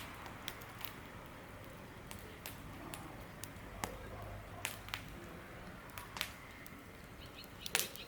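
Campfire crackling: irregular sharp pops and snaps, about a dozen, over a low steady hiss.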